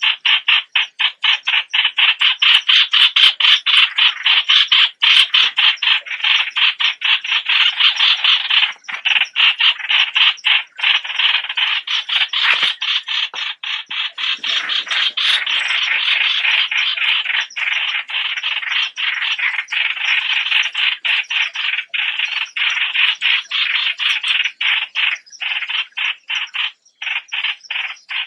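A bird known in Thai as nok plot (นกปลอด) calling continuously in a fast, chattering run of short notes, several a second, with only brief pauses.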